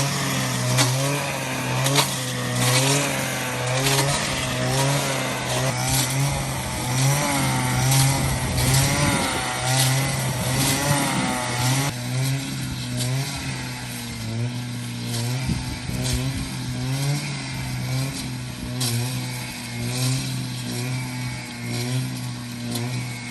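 An engine running steadily, its pitch wavering slightly, then cutting off abruptly at the end.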